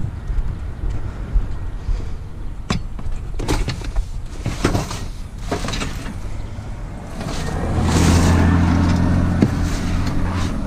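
A motor vehicle engine running as a steady low hum that grows louder about seven seconds in, with a few sharp knocks and clatters before that.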